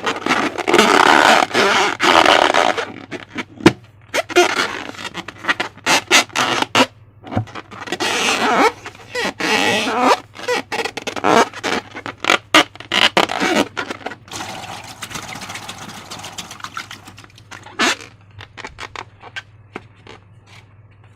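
Slime being squished and worked by hand, sticky crackling and scraping in irregular bursts full of small clicks, thinning out in the last few seconds.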